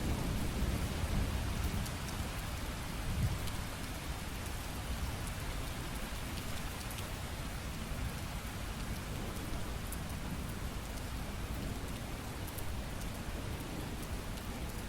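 Steady heavy rain falling, with low thunder rumbling that dies away over the first few seconds and swells once more about three seconds in.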